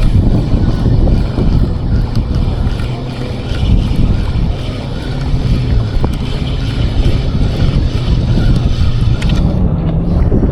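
Wind buffeting the microphone out on the water, a loud, steady low rumble with a faint, steady low hum underneath.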